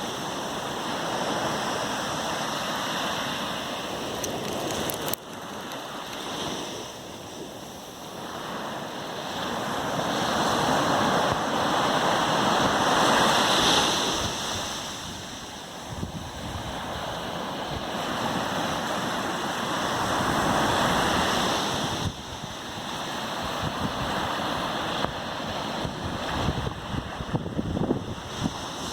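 Atlantic Ocean surf breaking and washing up a beach, the rush of water swelling and fading as waves come in, loudest about midway through. A few short knocks sound near the end.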